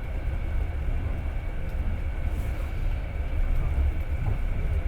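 Passenger train running along the track, heard from inside the carriage as a steady low rumble.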